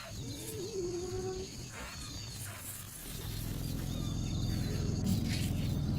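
Short, high bird calls repeating about once a second, with a lower wavering note about a second in; a low rumble builds up from about halfway through.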